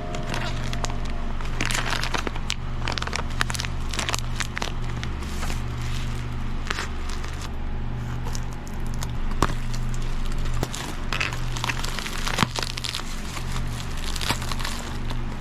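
Crinkling and crackling of packaging being handled, with irregular clicks and taps over a steady low hum.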